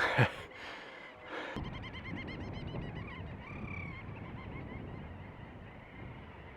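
Little auk colony calling: a rapid chatter of repeated high call notes, about five a second, from a second or so in until about four seconds, then fainter calls. A brief loud burst of noise at the very start.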